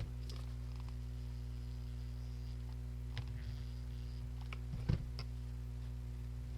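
Steady low electrical hum, with faint handling noises from jute twine being wrapped around a plastic flower pot: a few light clicks about three seconds in and a soft knock near five seconds.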